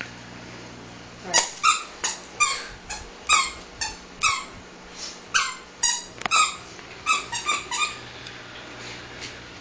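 A squeaky rubber dog toy being chewed by a dog: a run of sharp, high squeaks, two or three a second, starting about a second in and stopping about eight seconds in.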